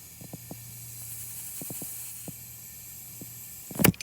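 Air hissing steadily into a truck tyre as it is inflated, over a low steady hum, with a few faint clicks. The hiss stops near the end with a sharp knock.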